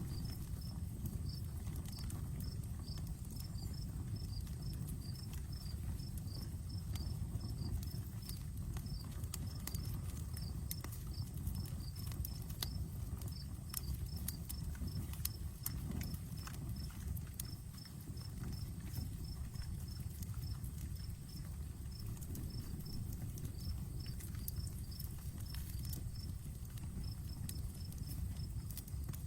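Outdoor wood campfire crackling, with frequent sharp pops and snaps over a low steady rush of burning. An insect chirps throughout in quick runs of short, high pulses.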